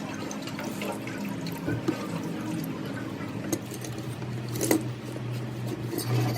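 Steady machine hum with a hiss like running liquid, broken by a few short metallic clicks; the sharpest click comes near the end.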